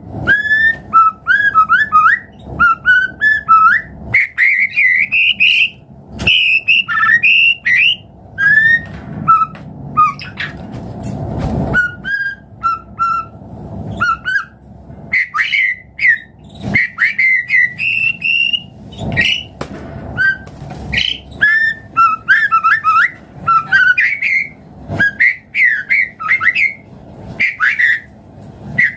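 White-rumped shama (murai batu) singing a loud, varied song of rapid whistled phrases and quick trills, broken by short pauses between phrases.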